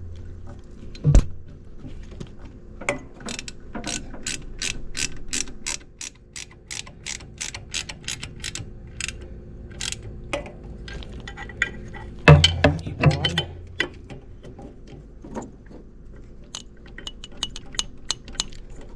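Socket ratchet wrench clicking in a long, even run of sharp clicks, several a second, as bolts are turned. A few louder knocks of metal tools come around a second in and again around twelve to thirteen seconds.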